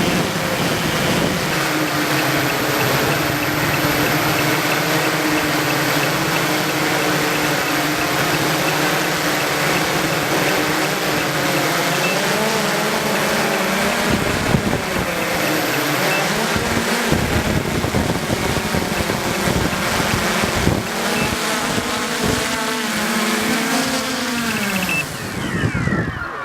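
Multicopter drone's electric motors and propellers running steadily, the pitch wandering up and down as the motors keep correcting against the wind. Near the end the pitch falls away as the motors slow down.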